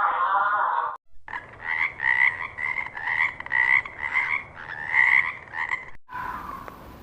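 An animal giving a quick series of short, pitched calls, about two to three a second, for roughly five seconds. A different sustained call ends in the first second, and another sound begins near the end.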